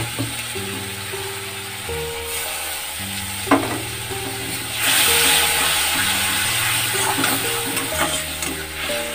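Spice paste of ginger-garlic, turmeric, chilli and cumin frying in hot oil in a steel kadai while a metal spatula stirs it: a steady sizzle that grows louder about five seconds in, with a sharp knock of the spatula on the pan about three and a half seconds in. This is the masala being fried down until the oil separates. Background music plays underneath.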